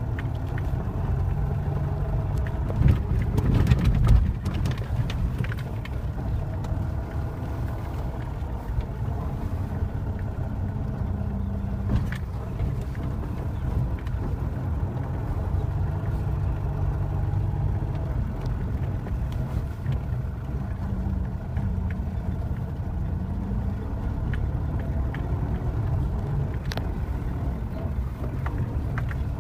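Moskvich 2140 driving over a snowy forest track: the engine runs steadily with a continuous low rumble of engine and road noise. A few louder knocks come about three to four seconds in, and single sharp clicks follow later.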